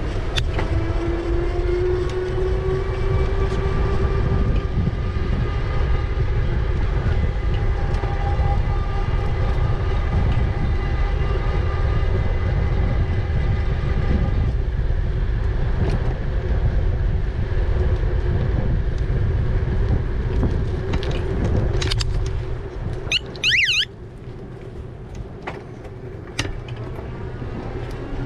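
Wind buffeting the microphone on a moving e-bike, with a faint electric motor whine that slowly rises and falls in pitch. The wind noise eases about three-quarters of the way through, when a brief high warbling chirp sounds.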